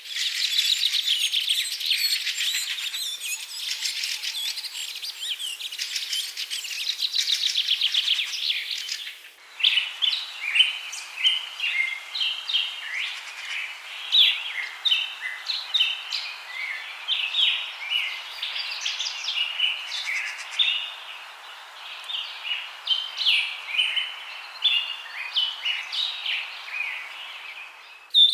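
Small birds chirping: dense, rapid twittering for about the first nine seconds, then after an abrupt change a run of short, varied chirp notes.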